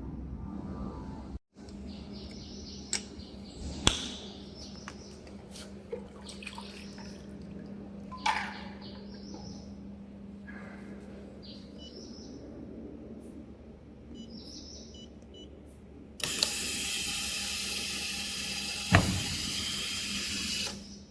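Desktop vacuum leak tester for aerosol cans in operation: a steady low hum with scattered clicks, short hisses and a few brief beeps. Near the end comes a loud rushing hiss lasting about four seconds, then it stops.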